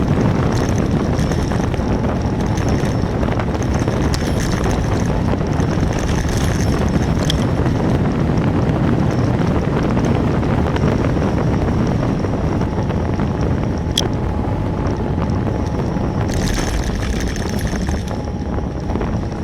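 Steady wind rushing over the microphone of a camera riding on a moving bicycle, with one sharp click about two-thirds of the way through.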